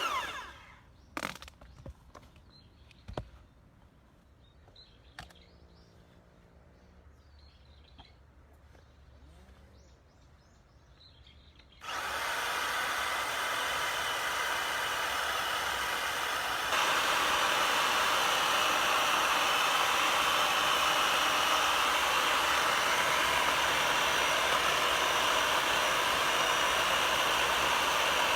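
A few sharp knocks in near quiet, then a motorised power tool starts abruptly about twelve seconds in and runs steadily, growing louder about five seconds later.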